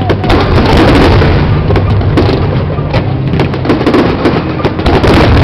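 Fireworks display with aerial shells bursting in quick, irregular succession: several sharp reports a second over a continuous crackle.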